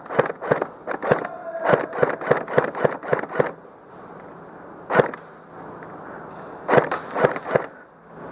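Airsoft guns firing indoors in quick single shots: a run of about ten cracks in under two seconds, one lone shot about five seconds in, and a quick cluster of about five near the end.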